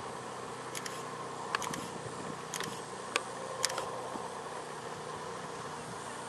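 Steady droning hum with several sharp clicks scattered between about one and four seconds in.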